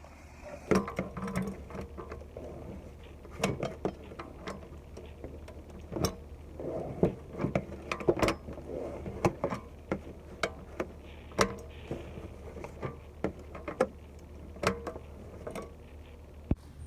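Irregular metallic clicks and knocks of a socket-driven cap-type oil filter wrench working a car's spin-on oil filter loose, with handling rustle and a steady low hum underneath.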